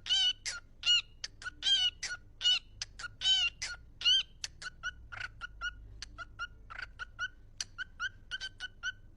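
A small animal's short, high-pitched squeaky cries repeated two to three times a second, louder in the first few seconds and then fainter and shorter.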